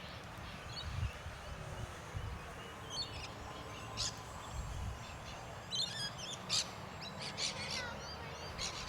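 Birds chirping, with short high calls several times, over low wind rumble on the microphone. A faint steady whine runs underneath.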